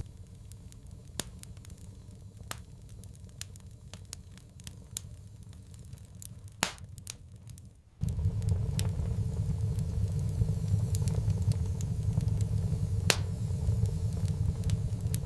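Wood fire crackling, with scattered sharp pops and snaps. About halfway in, a steady low rumble comes in suddenly under the crackling and stays.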